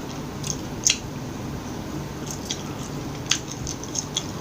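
Close-miked eating of McDonald's french fries: a handful of sharp, crisp clicks from bites and mouth sounds, a few seconds apart, with the strongest near the start and about three seconds in.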